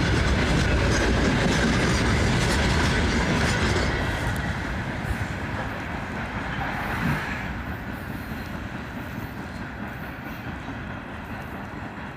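Freight train wagons rolling past, wheels clattering over the rail joints; the sound fades steadily from about four seconds in as the train draws away.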